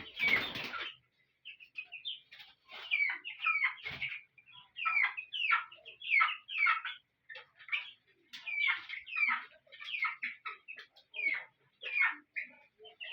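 A flock of three-week-old chickens peeping: many short, high calls that fall in pitch, overlapping irregularly. There is a brief burst of noise about half a second in.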